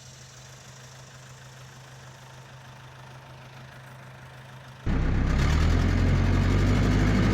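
Massey Ferguson MF 300 crawler dozer's engine idling as a faint, steady low hum. About five seconds in it switches abruptly to the engine running loud.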